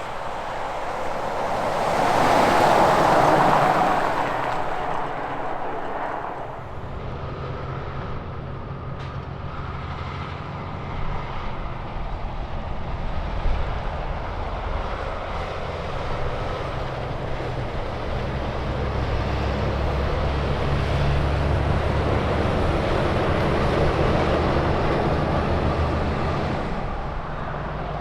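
Highway traffic passing: a vehicle goes by with a rush of tyre and wind noise about three seconds in, then a semi truck's diesel engine drones steadily and low, building to its loudest about twenty to twenty-four seconds in and easing off near the end.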